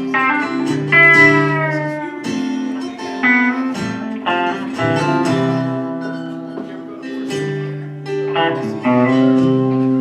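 Country band playing an instrumental intro: a lead guitar with notes that slide down in pitch over a steady bass and rhythm guitar.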